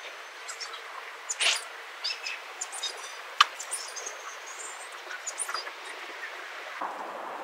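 Birds chirping: scattered short, high calls, some gliding in pitch, over a steady outdoor hiss, with one sharp click about three and a half seconds in.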